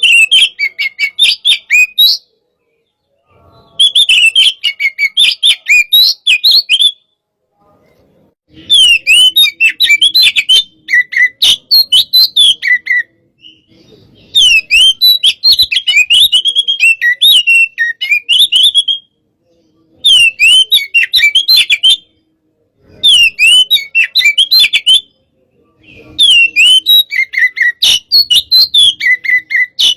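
Oriental magpie-robin (kacer) singing in loud bursts of rapid, varied whistles and chattering notes, each phrase lasting a few seconds with brief pauses between. This is the fired-up 'hot' (panas) singing style used as training audio for other kacer.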